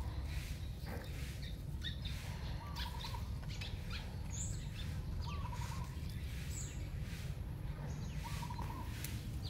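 Birds calling outdoors: a short stuttering call repeats every few seconds, with a few higher chirps, over a steady low rumble. Faint clicks and taps come from a kitten biting and pawing a plastic toy tank.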